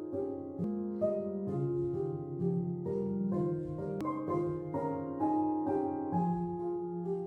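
Gentle piano music: single notes struck one after another over sustained lower notes, at a slow, even pace.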